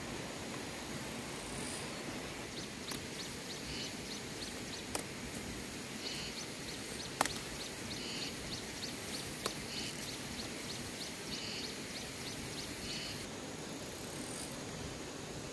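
Outdoor ambience of birds chirping in repeated short calls over a steady high insect hum, with a few sharp snaps as cassava leaf stems are broken off by hand.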